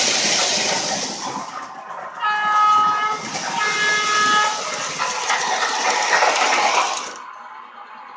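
Lionel R16 O-gauge model subway train running, with rolling and motor noise, while its onboard sound system plays two horn blasts, each about a second long, about two and three and a half seconds in. The running sound cuts off abruptly near the end.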